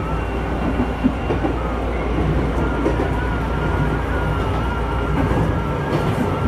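Nagano Electric Railway local electric train running on the track, heard from inside the car: a steady rumble of wheels on rail with a sharp click about a second in and a faint wavering whine over it.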